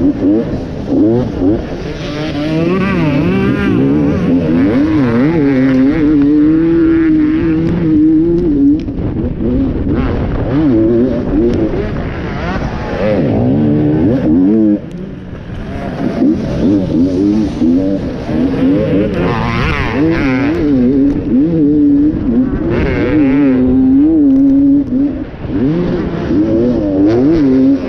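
Enduro dirt bike engine racing over rough ground, its pitch rising and falling over and over as the throttle is opened and shut.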